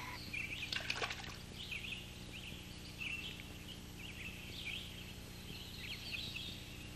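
Small birds calling: many short, high chirps that repeat irregularly. There is a brief cluster of clicks about a second in, and a faint steady low hum underneath.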